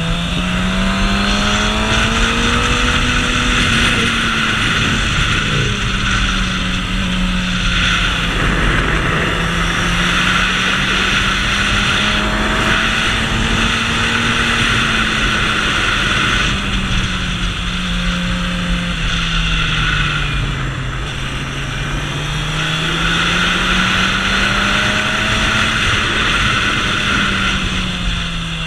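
Suzuki GSX-R750's inline-four engine running under way, its pitch rising and falling slowly several times with the throttle. Strong wind rush on the microphone runs over it.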